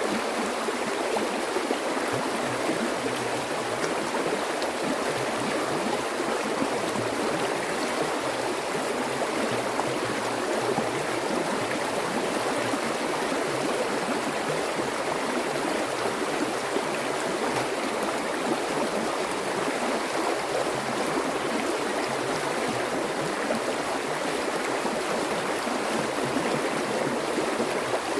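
Running water flowing steadily, an even rushing noise with no pauses or changes.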